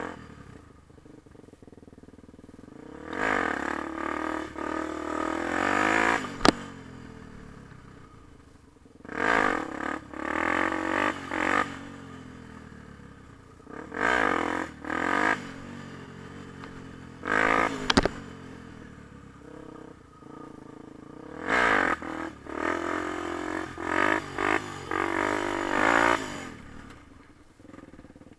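Yamaha TT-R250 dirt bike's single-cylinder four-stroke engine revving in repeated bursts of throttle, its pitch rising and falling, and dropping back to low running between bursts. Two sharp clicks stand out, about a quarter of the way in and again about two-thirds in.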